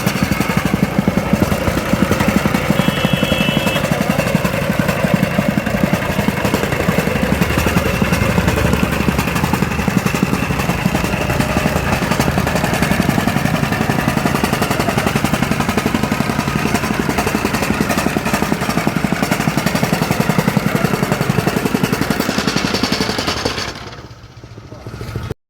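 Honda engine of a concrete power trowel running steadily at working speed, with a fast even beat; the sound falls away sharply near the end.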